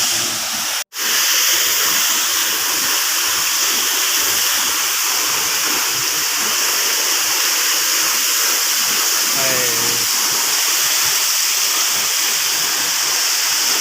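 Waterfall rushing: a loud, steady roar of falling water, cut off for an instant a little under a second in.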